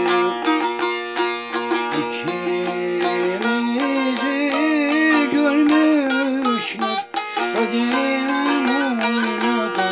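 Turkish folk music (türkü) played on a plucked string instrument, with steady ringing notes under a quick plucked figure; about three and a half seconds in, a wavering held melody line comes in above it.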